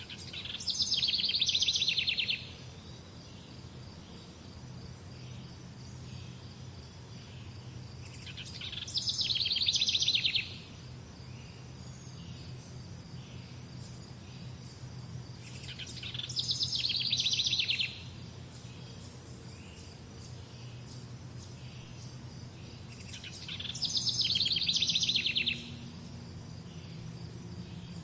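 A songbird singing a short, rapid trilled phrase about two seconds long, four times at even intervals of roughly eight seconds; each phrase swells in loudness and then stops abruptly. Between phrases there is a steady background of insect chirring.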